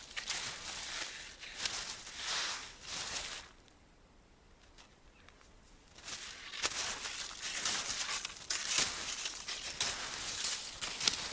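Ski strides crunching and swishing over snow in a loose rhythm. They pause for a couple of seconds midway, then go on.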